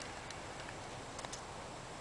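Quiet woodland ambience: a faint steady hiss with a few soft ticks.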